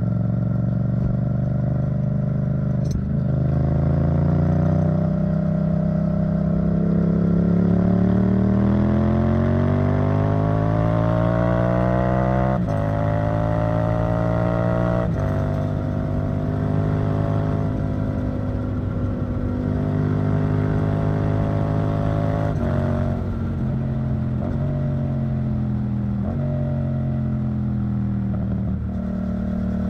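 Yamaha MT-07's 689 cc parallel-twin engine running through an Arrow Thunder titanium exhaust. Its pitch climbs steadily for about ten seconds, then changes in a few sudden steps and holds fairly level with small rises and falls.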